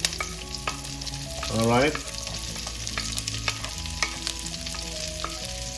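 Chopped garlic, onions and ginger frying in hot rendered pork fat, a steady sizzle with many small crackles as they are stirred in the pan.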